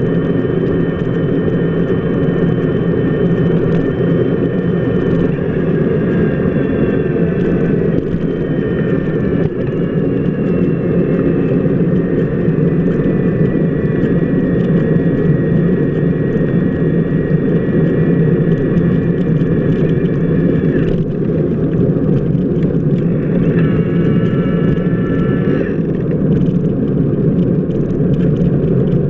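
Steady, loud rolling noise of a bicycle wheel on wet pavement, picked up by a camera fixed to the turning wheel hub, with faint high tones that drift slowly in pitch and come and go.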